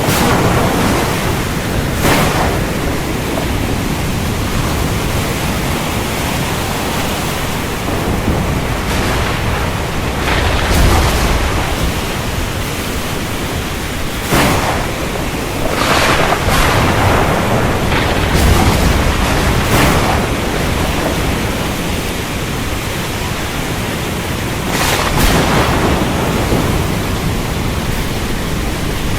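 Thunderstorm: heavy rain falling steadily, with several sharp thunder cracks and two longer low rumbles of thunder.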